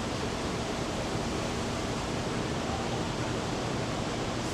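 Steady, even rushing of water in Biosphere 2's artificial ocean, with a faint steady hum underneath, cutting off abruptly at the end.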